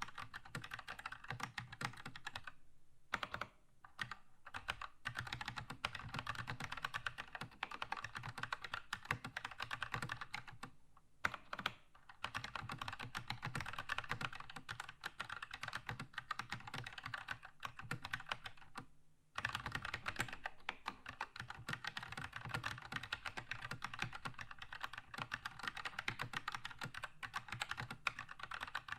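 Keychron K2 mechanical keyboard with red linear switches being typed on in fast, continuous keystrokes, with short pauses a few seconds in, near the middle and about two-thirds of the way through.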